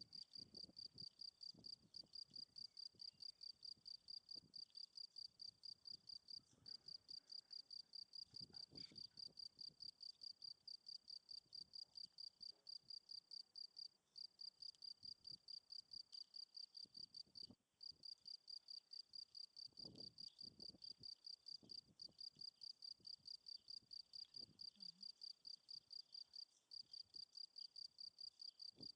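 Field cricket chirping: a quiet, steady run of high, evenly spaced chirps, about three a second, broken by a few brief pauses.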